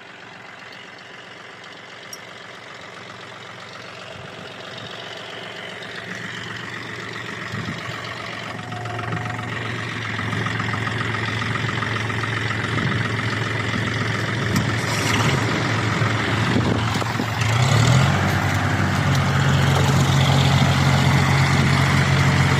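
Diesel tractor engine running under load, growing steadily louder and revving up near the end, as a bogged-down tractor is pulled out of the soft field.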